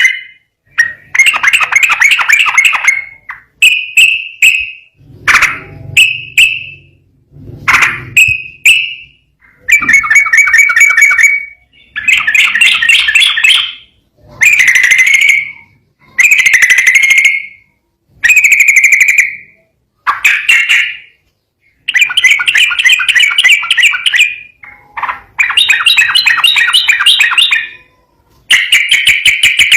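Yellow-vented bulbul (trucukan) singing loudly in a rapid run of bubbling notes, delivered in phrases of one to two seconds with short pauses between them.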